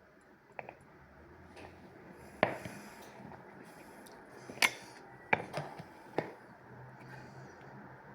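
Close-miked eating of a French tacos: quiet chewing with a few sharp clicks and crackles, the four loudest spread between about two and six seconds in, along with taps of dishes and cutlery.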